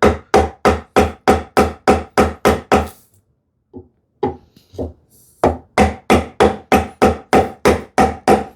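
Repeated chopping blows into a sapele board, about three a second, taking waste off down toward a marked line. The blows pause for about a second near the middle, then carry on at the same pace.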